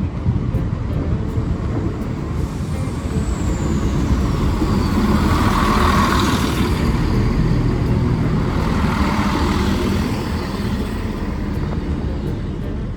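Road traffic noise: a steady low rumble with vehicles passing, the loudest about halfway through and another a few seconds later.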